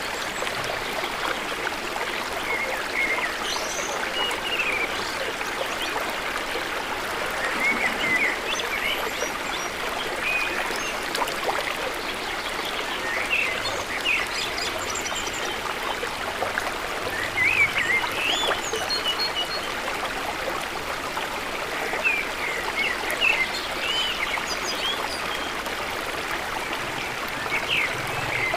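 A stream of running water with a steady flowing sound, and birds chirping in short clusters of quick, bending calls every few seconds.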